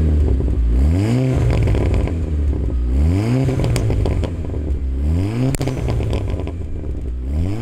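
VW Golf 6 R's tuned turbocharged four-cylinder running through a full open aftermarket exhaust with downpipe, heard from inside the cabin. The revs rise three times, about two seconds apart, each time holding and then falling back, with a few short sharp clicks over the engine note.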